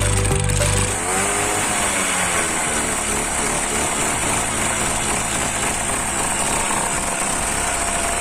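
Freshly rebuilt 45cc TVS scooter engine running after reassembly, revved so that its pitch rises and falls about one to three seconds in, then running steadily.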